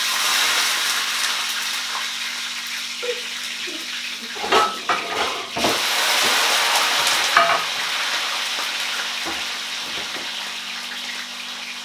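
Frozen potato chips (fries) sizzling loudly in hot oil in a frying pan. The hiss jumps up at once as they go in and slowly eases off, with a few knocks and clinks of a utensil in the pan around the middle.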